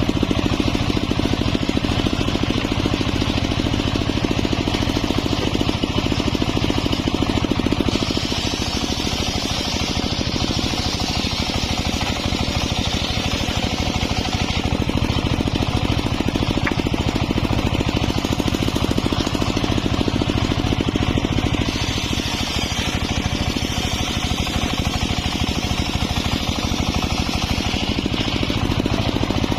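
Homemade engine-driven circular sawmill running steadily. A high hiss from the blade in the wood grows and fades every several seconds as it cuts.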